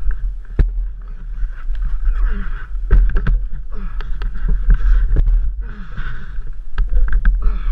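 A steady, heavy low rumble with indistinct voices and a few scattered knocks.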